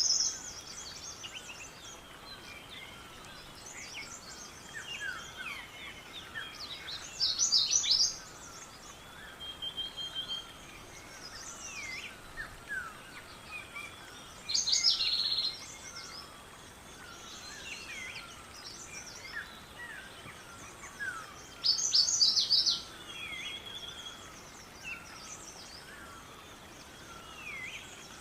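Birds singing outdoors: many soft chirps and whistled notes throughout, with one louder, rapid song phrase repeated three times, about every seven seconds.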